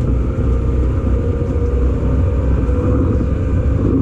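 Electric commuter train running, heard from inside the car: a steady low rumble of wheels on rail with a traction-motor whine that creeps slightly up in pitch.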